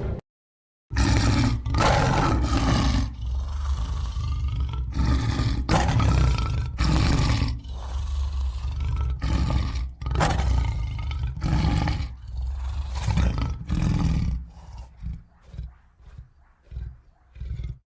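Lion roaring bout: after about a second of silence, a long series of deep roars and grunts. Near the end the calls become shorter, fainter and further apart, then stop.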